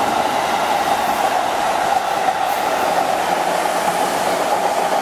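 Electric commuter train passing close by at speed: a steady, loud rush of wheel and running noise, with no break.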